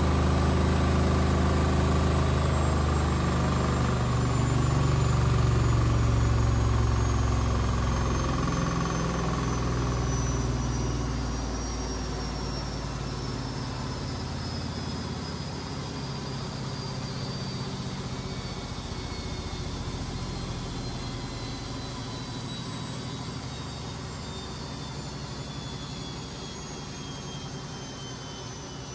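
A Beko WMB 71643 PTE washing machine winding down from a spin: the brushed motor's whine falls steadily in pitch, and the heavy drum rumble dies away over the first dozen seconds.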